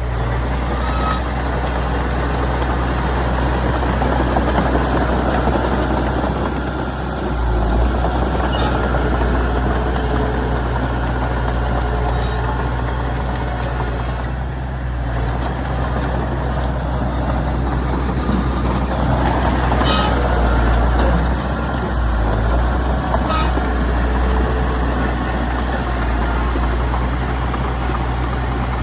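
Komatsu D31PX crawler bulldozer's diesel engine running steadily as it works, its level swelling and easing, with a few sharp metallic clinks.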